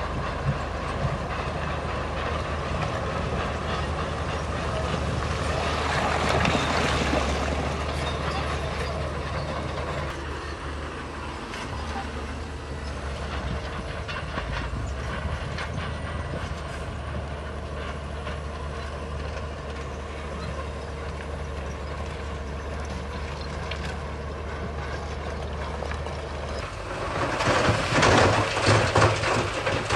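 Bulldozer diesel engine running steadily under load, with the clanking rattle of its steel crawler tracks. The clatter swells briefly about six seconds in and turns loud near the end.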